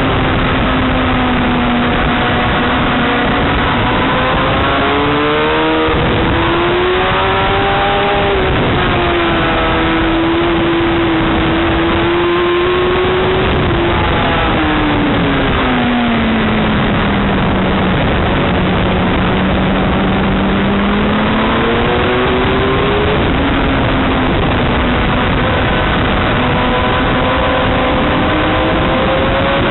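Motorcycle engine running at changing speed, its pitch climbing and falling slowly over several seconds at a time, under a constant loud hiss.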